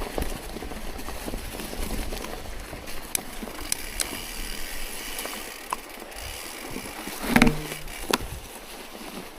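Bicycle ridden through snow: steady tyre and drivetrain noise with scattered clicks, and a short louder sound about seven and a half seconds in.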